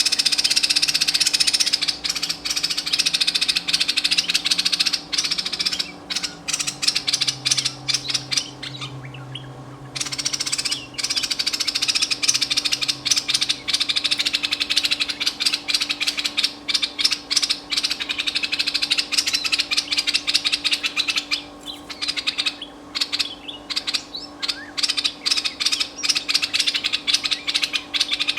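Merbah lekir, a bulbul used as a trapping decoy, calling in long runs of fast, chattering notes with brief pauses, over a steady low hum.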